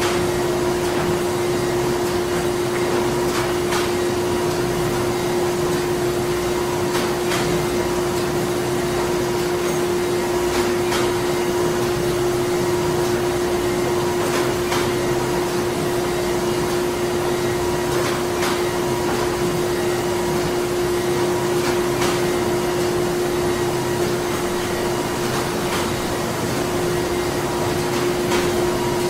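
Printing-plant machinery running steadily: a constant hum over dense mechanical noise, with a light click repeating about every three and a half to four seconds.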